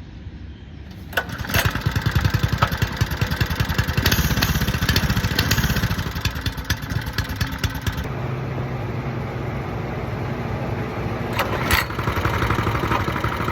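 Small motorbike engine starting about a second in and running with a rapid pulsing beat, changing about eight seconds in to a steadier, lower hum.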